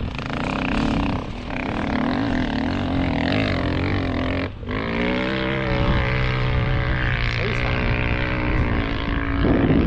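Dirt bike engine running hard under throttle, its pitch rising and falling as it revs. It cuts out for a moment about four and a half seconds in, then pulls again with a slowly rising pitch.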